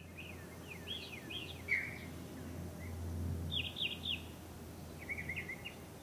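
Birds chirping in three runs of quick, high chirps, one near the start, one in the middle and a shorter one near the end, over a low steady hum.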